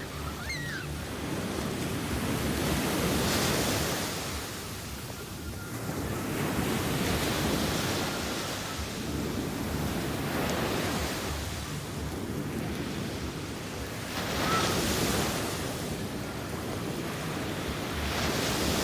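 Sea waves washing in, the surf swelling and easing every few seconds.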